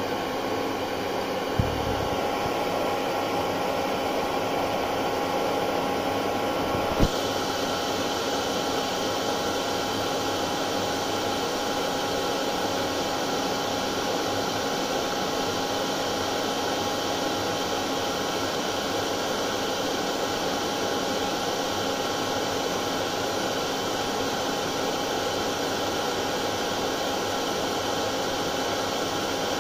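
Hair dryer running steadily: a constant blowing whoosh with a steady motor whine in it. A short low thump comes about a second and a half in, and a sharp click about seven seconds in.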